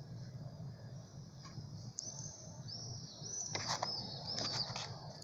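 A bird chirping: a run of about five short, high, arched notes starting about two seconds in, with a few faint clicks among them, over a steady low hum.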